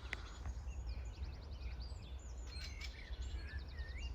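Small birds chirping, with two quick high trills, over a steady low rumble of outdoor noise.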